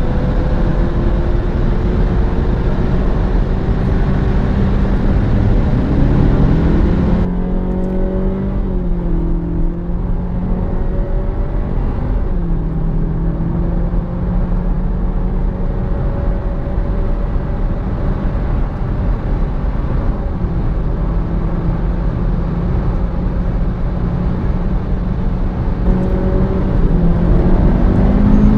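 Turbocharged Honda's engine and road noise heard from inside the car while driving. The engine drones steadily, changes pitch in steps, and rises as it accelerates near the end. The hiss drops sharply about seven seconds in.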